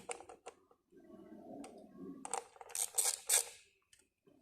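Sharp clicks and clinks of hand tools and plastic engine parts being handled: a few light clicks at the start, a softer rustle about a second in, then a cluster of louder clicks around three seconds in.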